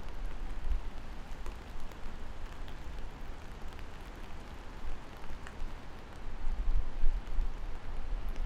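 Steady rain falling, with a deep, uneven rumble underneath and a few faint drip ticks.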